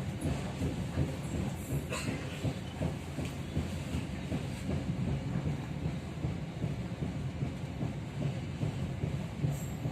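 Passenger train running along the track: a steady low rumble of wheels on rails, with a brief click about two seconds in.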